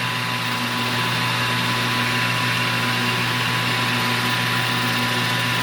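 Metal lathe running steadily at about 1,000 RPM: an even motor and spindle hum with a faint high whine.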